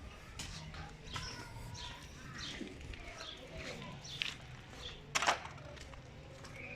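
Birds chirping on and off in the background, with one sharp knock about five seconds in.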